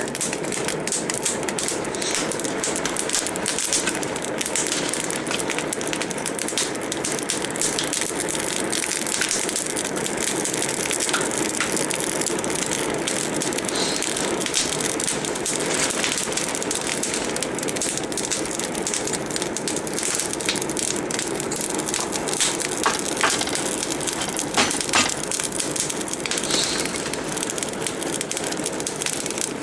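Forge fire burning hard, a steady rush of noise full of small crackles, with a few louder pops in the second half.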